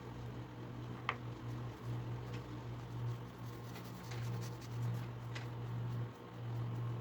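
Quiet handling sounds while oiling a knife handle: faint rubbing with two light clicks, one about a second in and one past five seconds. Under them runs a low steady hum that drops out briefly a few times.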